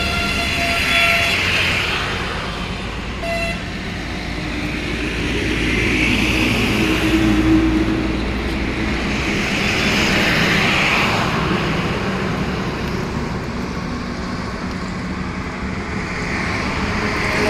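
Vehicle engines and traffic running steadily with a low rumble and swells of passing noise. A horn toots at the start and briefly again about three seconds in.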